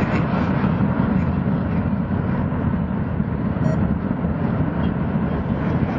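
Jet engine noise from a Qantas Boeing 747-400's four Rolls-Royce RB211 turbofans during takeoff: a steady deep rumble.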